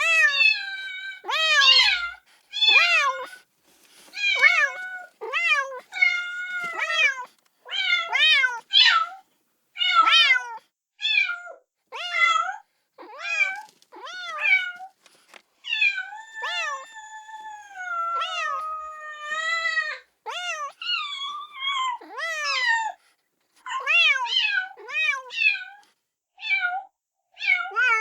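Kitten meowing over and over, high-pitched repeated cries of about one or two a second with short gaps, some calls longer and drawn out: a kitten crying for its mother.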